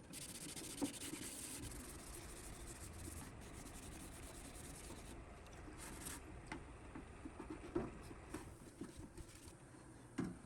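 Faint rubbing and scratching, with a few light clicks.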